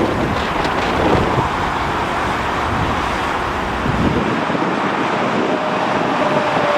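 Jet airliner engine noise mixed with strong wind on the microphone, a dense steady rush; a steady whine comes in about five and a half seconds in.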